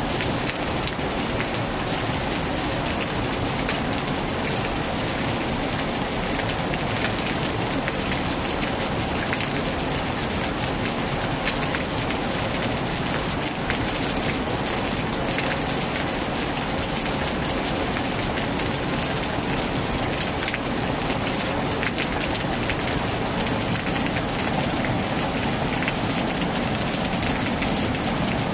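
Heavy rain falling steadily on a tin roof, an even wash of countless drop hits.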